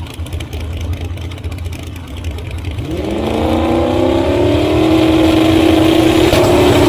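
Ultra Street drag cars' engines rumbling at low revs; about three seconds in, an engine revs up in a rising glide, then holds high, steady revs. The sound grows louder as it climbs.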